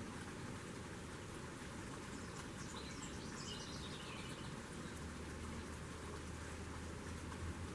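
Outdoor ambience with a steady background hiss and low hum, and a short run of small birds' high chirps about two and a half seconds in, lasting about two seconds.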